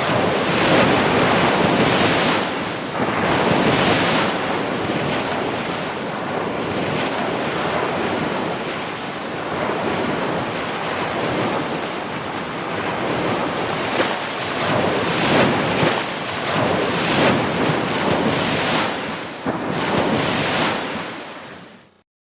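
Ocean surf washing ashore, a steady rush of waves swelling and easing in loudness, fading out quickly to silence near the end.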